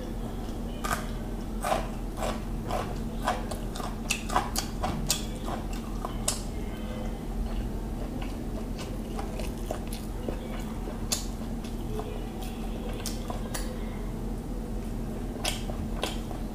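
Close-miked chewing of a piece of raw carrot: a quick run of crisp crunches for the first several seconds, then slower, sparser chewing clicks and wet mouth sounds. A steady low electrical hum sits underneath.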